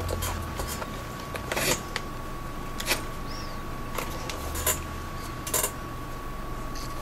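A leather catcher's mitt being handled during relacing: scattered sharp knocks and rubbing, about seven knocks at uneven intervals.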